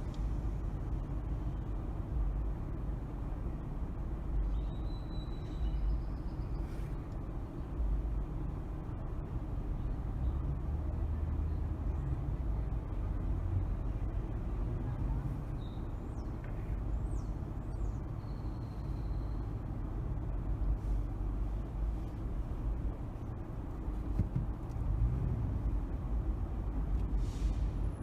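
Car driving in city traffic: a steady low rumble of engine and tyre noise, with a few faint, brief high squeaks now and then.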